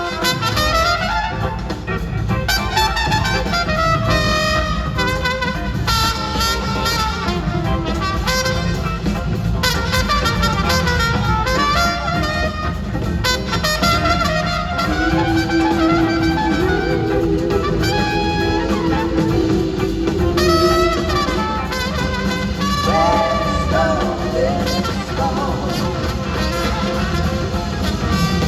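Live band playing an instrumental passage of a soul-blues song, with brass horns carrying melodic lines over bass and drums.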